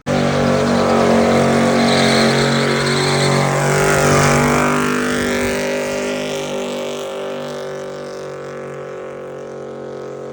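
A vehicle engine held at steady high revs, starting abruptly and slowly fading away.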